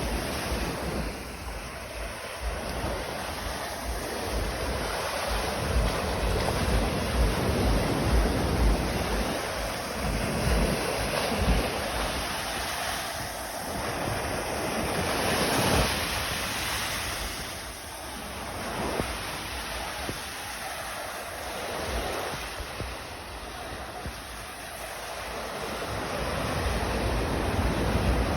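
Sea waves washing onto the shore, swelling and ebbing every few seconds, with wind buffeting the microphone as a low rumble.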